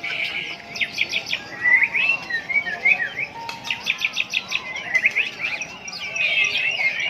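Several white-rumped shamas singing at once: a dense, overlapping tangle of loud whistles, rising and falling glides and rapid chattering trills.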